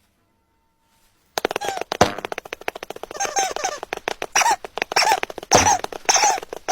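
Silence, then about a second and a half in a rapid, raspy squawking chatter from a cartoon soundtrack starts and runs on in repeated squawks.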